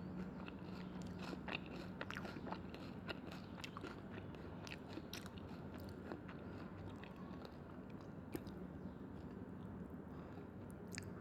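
Close-miked eating: chewing with frequent sharp mouth clicks and small crunches, over a steady low hum.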